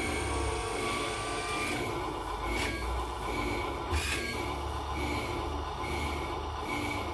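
A machine runs steadily with a low rumble. A faint high tone pulses on and off over it, and there are two sharp knocks, about two and a half and four seconds in.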